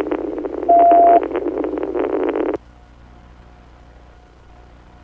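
Police radio transmission: a burst of static over the narrow radio channel with a steady beep lasting about half a second, about a second in; the transmission cuts off abruptly about two and a half seconds in.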